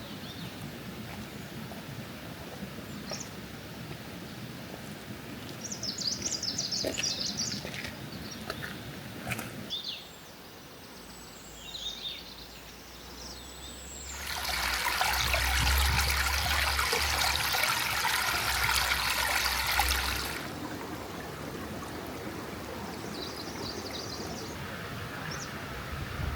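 Outdoor background with small birds chirping. About halfway through, a loud rush of running water starts abruptly, lasts about six seconds and cuts off. After it, the quieter background and scattered chirps return.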